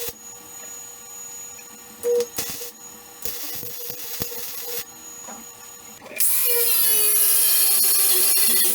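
Metalworking power tool on steel: a few short starts and clicks, then from about six seconds in a loud, steady high-pitched run whose pitch sags slightly as it works.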